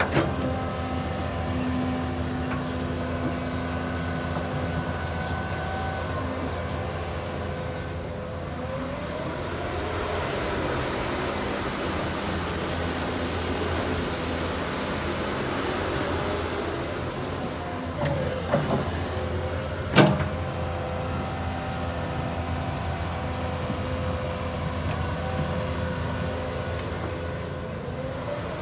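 Caterpillar 320D2 hydraulic excavator's diesel engine running steadily, its pitch shifting a few times, with one sharp click about two-thirds of the way through.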